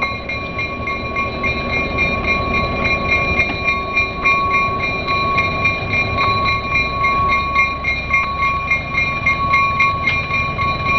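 Museum caboose rolling slowly along yard track: a steady rumble of running noise with a steady high-pitched whine over it and scattered light clicks.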